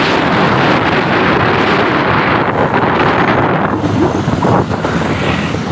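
Loud, steady wind buffeting the microphone of a moving motorcycle, with road and engine noise beneath it.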